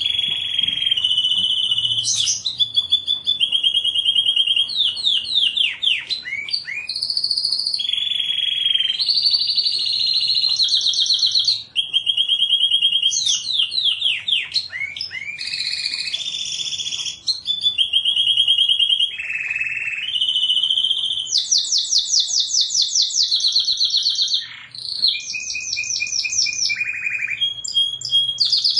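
Domestic canary singing a long, unbroken song of rapid trills, each held for a second or two before jumping to a new pitch, mixed with quick down-slurred notes.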